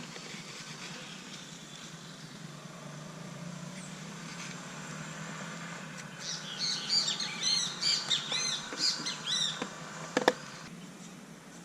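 Small songbird at a feeder chirping a quick run of arching notes for about three and a half seconds, starting about halfway in, over a steady low hum. Two sharp clicks follow just after the chirping.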